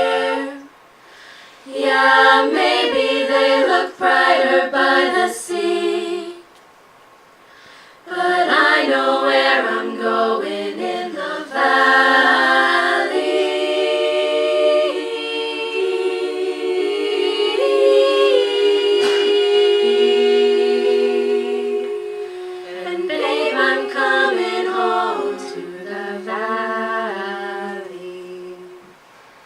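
A cappella vocal ensemble singing close-harmony chords without instruments: short rhythmic chord phrases broken by two brief pauses, then a long held chord through the middle, then more short rhythmic chords that fade out near the end.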